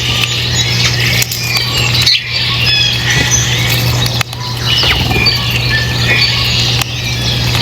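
Many small birds chirping and twittering densely at once, over a steady low hum. The sound drops out briefly three or four times.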